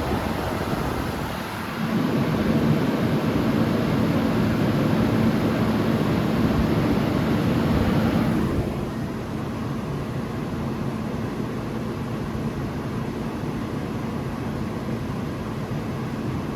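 Vintage Carry Cool 5,000 BTU window air conditioner running with its compressor and fans on, cooling: a steady rush of moving air over a low hum. It gets louder about two seconds in, then drops and turns duller about eight and a half seconds in.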